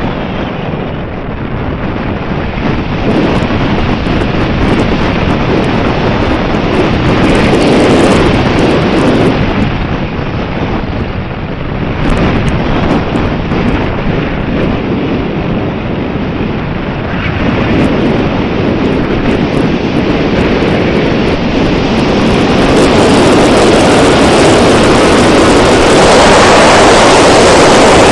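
Strong wind buffeting the microphone in gusts, a loud, rushing roar that swells and eases and is loudest near the end.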